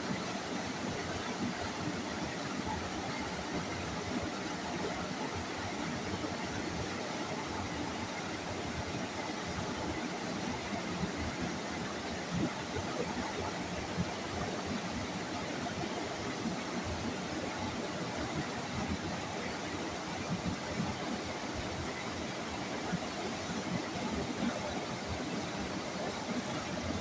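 River water flowing: a steady, unbroken rushing noise.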